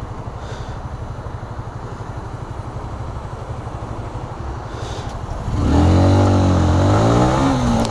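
Single-cylinder engine of a Honda CBR125 motorcycle running at low revs with a steady low pulsing, then about five and a half seconds in it gets louder and revs up as the bike accelerates, its pitch rising, dipping and rising again through the gears.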